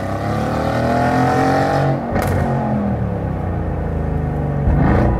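VW Golf 5 R32's 3.2-litre VR6 engine through a custom valved exhaust, revving up with rising pitch for about two seconds. The revs then break off with a sharp crackle before it runs on, with a second loud burst near the end.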